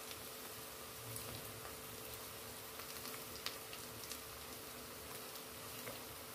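Faint, steady sizzle of moong dal frying in oil in a steel pot, under a steady low hum. A few soft clicks come as green chillies are cut with a knife and the pieces drop into the pot.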